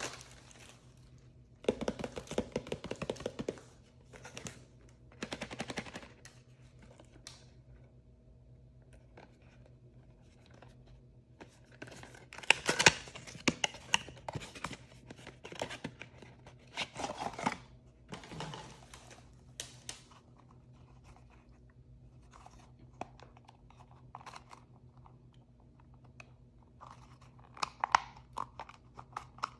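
Blind-bag packaging being torn open and crinkled by hand, in several bursts of tearing and rustling with sharp clicks of handling, and quieter stretches in between.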